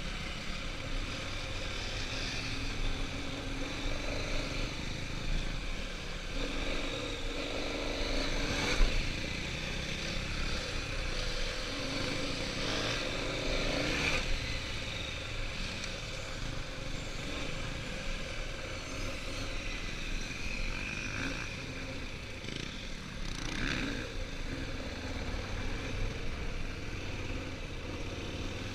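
Motorcycle engine rising and falling in pitch under heavy wind noise while riding on a dirt track, with a sharp knock about nine seconds in.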